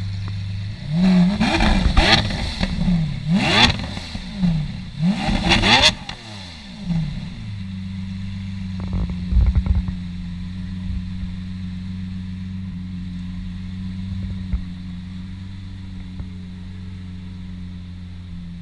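Lamborghini Aventador's naturally aspirated V12 blipped about five times in quick succession while stationary, each rev rising and dropping sharply with loud cracks from the exhaust, then settling into a steady idle. A few brief knocks sound about nine seconds in.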